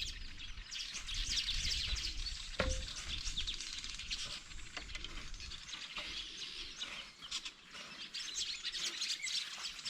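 A chorus of many small birds chirping and twittering, their calls overlapping without a break, with a low rumble underneath during the first half.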